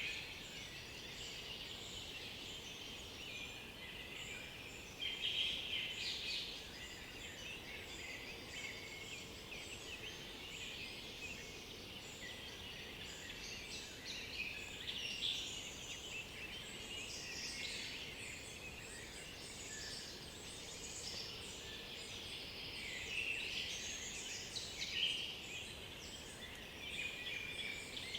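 Several songbirds singing at once in a dense, overlapping forest chorus, with a few louder phrases standing out now and then over a faint background hiss.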